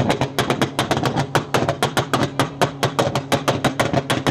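A car's exhaust running with a fast, even popping, about eight sharp pops a second over a steady low tone.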